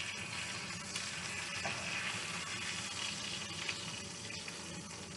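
Seasoned chicken thighs frying in oil in a skillet: a steady sizzle with small pops.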